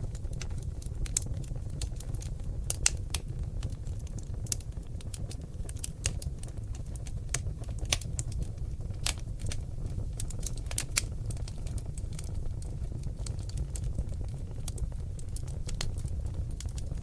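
Seasoned oak logs burning in a fireplace, crackling and popping with irregular sharp clicks over a low, steady rumble of the flames.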